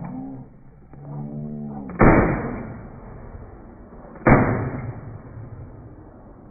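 Two shotgun shots about two seconds apart, each sharp and loud with a rolling decay, fired at flushing quail.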